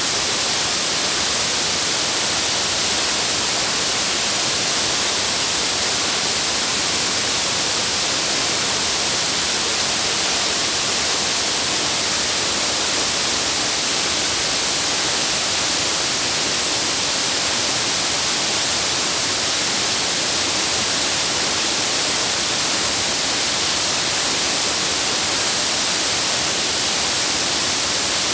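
Waterfall rushing: a loud, steady, unbroken hiss of falling water with no change in level.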